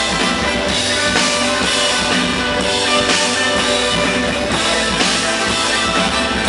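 Live rock band playing loudly: full drum kit with regular cymbal accents, over guitars and bass.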